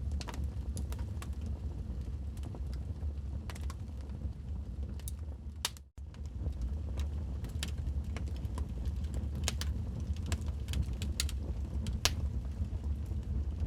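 Wood fire in a fireplace crackling, with irregular sharp pops and snaps over a steady low rumble. The sound drops out for an instant about six seconds in, then comes straight back.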